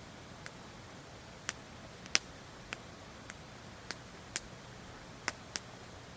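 Wood fire crackling: sharp irregular pops and snaps, about ten of them, with two louder pops about two and four seconds in.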